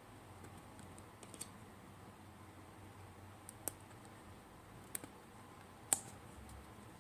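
Tarot cards being handled and laid down one by one: a few sharp light clicks at irregular intervals, the loudest near the end.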